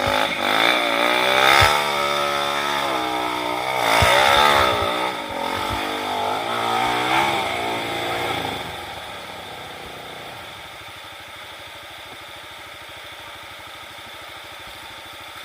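Trail motorcycle engine revving up and down as the bike is ridden, with a couple of sharp knocks, then fading away about eight seconds in.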